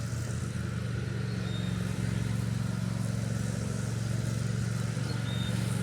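A steady low motor hum, like an engine running, unchanging throughout.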